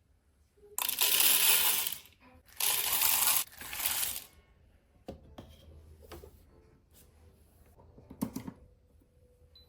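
Whole coffee beans poured into the espresso machine's built-in grinder hopper: two pours of about a second each and a shorter third, rattling like a cascade of small hard pieces, followed by a few light clicks and a small knock.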